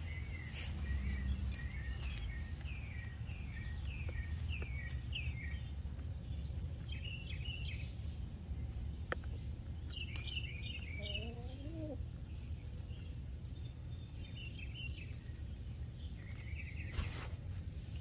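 Small birds chirping in runs of short, repeated, slightly falling notes, over a steady low rumble of background noise.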